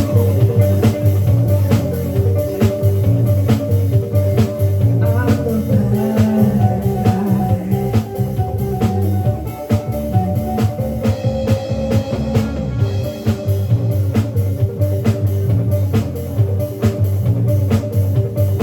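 Live rock band playing an instrumental passage without vocals: electric guitar over bass and a steady drum-kit beat.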